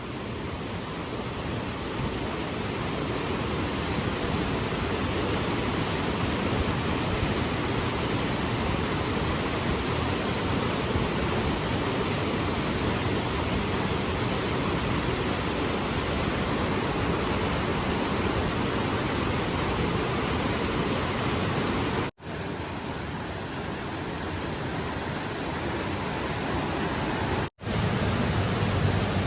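Steady rush of stream water flowing. It cuts out abruptly for a split second twice, about 22 and 27 seconds in.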